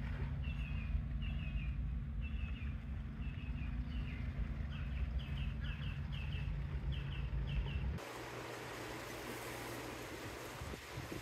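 A bird calling over and over in quick chirps of two or three notes, over a steady low rumble. About eight seconds in this cuts to an even hiss of wind and small waves on open water.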